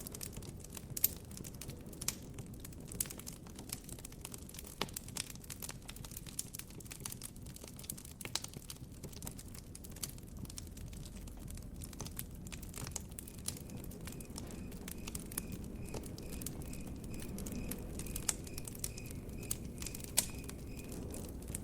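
Wood campfire crackling: irregular snaps and pops over a low steady rumble. From a little past halfway a cricket chirps faintly and evenly, about twice a second, until near the end.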